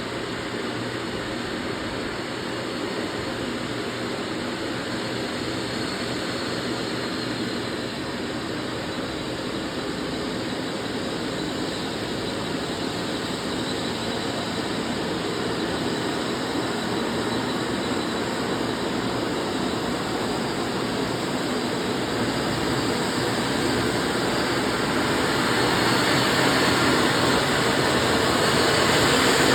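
Diesel truck engine running steadily under load with road noise, getting louder over the last few seconds.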